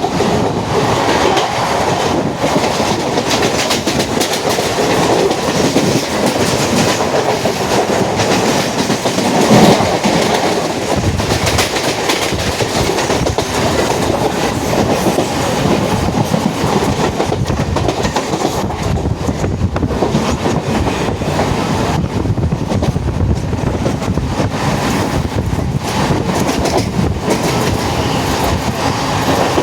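Mumbai suburban local train running at speed, heard from inside a carriage: steady wheel-and-rail rumble with rhythmic clickety-clack over the rail joints, and one louder surge about nine seconds in.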